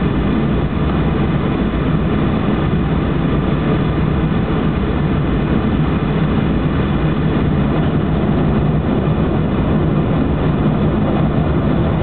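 Boeing 737-800's CFM56 jet engines running steadily, heard as a loud even rumble with a faint whine inside the passenger cabin.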